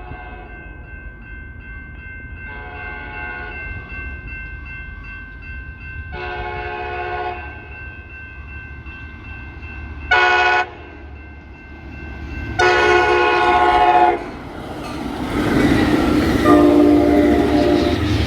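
Diesel locomotive's multi-chime air horn blowing a long, long, short, long sequence, the standard grade-crossing signal, as the train approaches. The train's rumble grows louder near the end, with one more blast of the horn.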